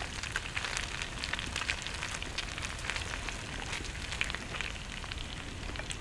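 Walleye pieces frying in oil in a pan over a campfire: a steady sizzle dotted with many sharp little crackles and pops.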